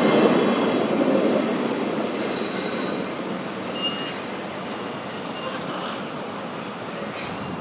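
Freight train rolling past, its cars and wheels making a steady rumbling clatter with faint high wheel squeal. The noise fades steadily as the train moves away.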